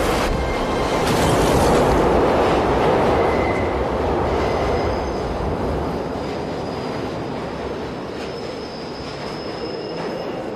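Subway train running through the station at speed: a dense rush of wheel and rail noise with faint steady wheel squeals, loudest a second or two in and slowly easing off.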